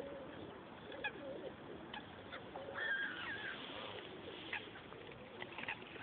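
Birds calling: pigeons cooing low and wavering, with a few higher chirps about three seconds in.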